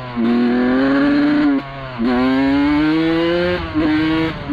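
1991 Suzuki RM125 two-stroke engine revving in three pulls, its pitch climbing slowly through each pull and dropping briefly between them, the last pull short. It is running rough on cheap gas-station premix, which the owner blames for the bike's poor running.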